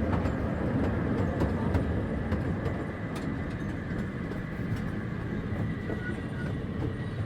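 Small scenic park train running along its track with a steady rumble and a few light clicks.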